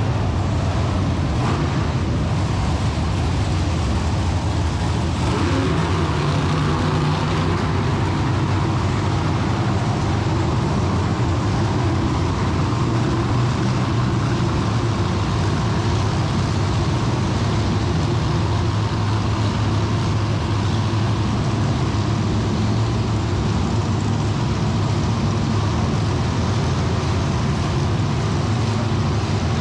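Monster truck engine running loudly and steadily, its pitch rising and falling as it revs.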